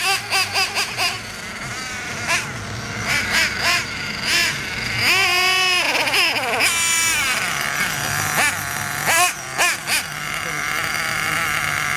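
Small nitro engine of a Revo RC monster truck, idling and blipped up in short revs, with one longer rev that rises and falls about five to six and a half seconds in, while the engine is being tuned.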